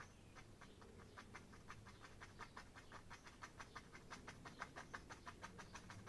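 Faint, rapid scratchy ticks of a stiff paint brush being dabbed and stroked on an oil-coated canvas, several a second, a little stronger in the second half.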